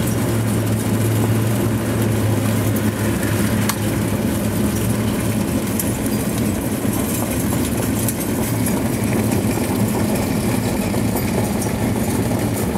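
Engine of the mobile starting-gate car running steadily as it drives, heard from inside the car: a constant low hum with road and wind noise.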